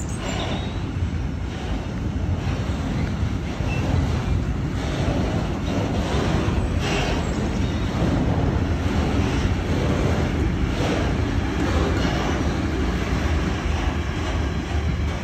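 Freight train of hopper wagons rolling steadily past over a level crossing: a continuous low rumble of wheels on rail, with occasional sharp wheel knocks.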